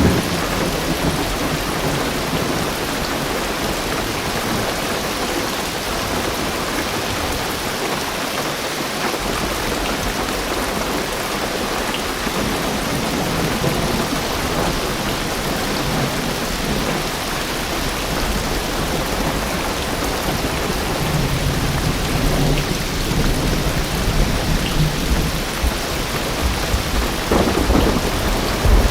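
Heavy rain drumming steadily on a car roof and windows, heard from inside the car. A low thunder rumble builds up under it in the second half and is strongest near the end.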